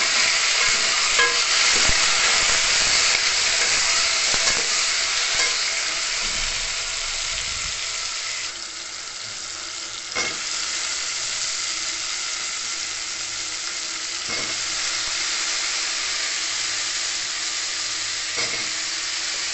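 Shallots, tomato, curry leaves and green chillies sizzling as they fry in oil in an aluminium pot, stirred with a spoon that clicks against the pot. The sizzle drops about eight seconds in. A knock follows about ten seconds in, as chopped drumsticks, brinjal and potato go into the pot, and the frying goes on more quietly under them.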